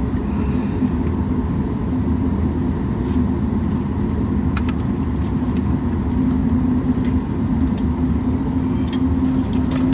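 Steady rumble and hum inside the cabin of a Boeing 737 MAX 8 airliner on the ground after landing, with a few light clicks about four and a half seconds in and again near the end.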